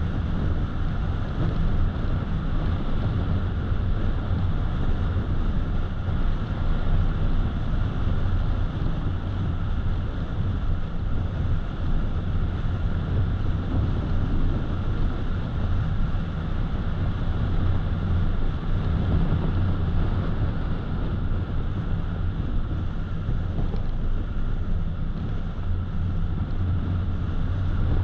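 Steady road noise of a car on the move: a low tyre and engine rumble with wind noise over it, unchanging throughout.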